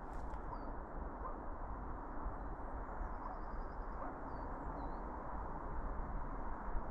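A small bird calling: short, high, falling notes repeated about once a second, with a brief trill about halfway through, over a steady low rushing noise.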